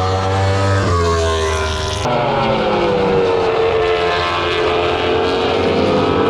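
MotoGP racing motorcycle engines at high revs, passing close. The note shifts about a second in and changes abruptly about two seconds in, then falls and climbs again.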